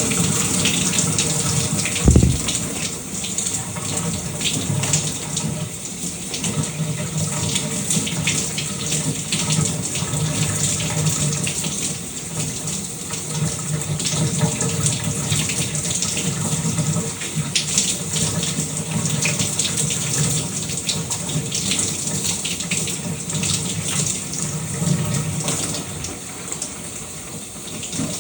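Shower water running and spattering steadily. A single low thump sounds about two seconds in.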